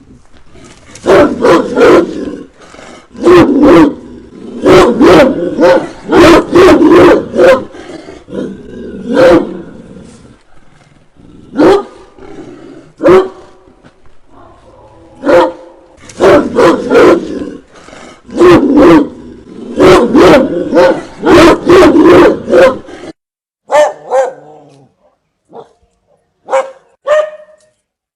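Dogs barking fiercely and growling, in fast runs of loud barks with short pauses between them, the barks growing sparser near the end.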